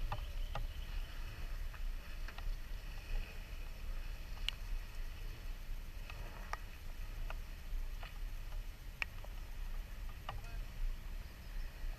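Scattered raindrops ticking sharply and irregularly against the camera, over a low steady rumble.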